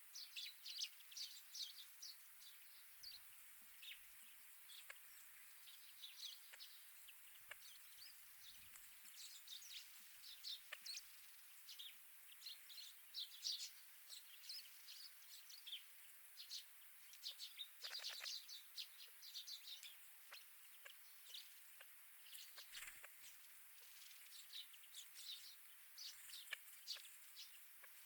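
Small wild birds chirping faintly: many short, high chirps and twitters scattered throughout, some in quick clusters.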